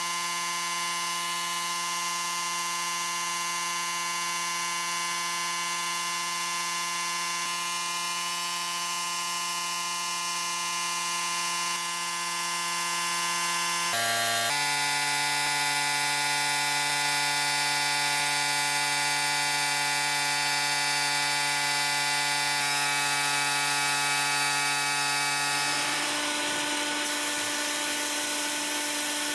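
Electric power tool motor running with a steady whine. Its pitch drops suddenly about halfway through, then changes again near the end, where a rougher grinding noise joins in.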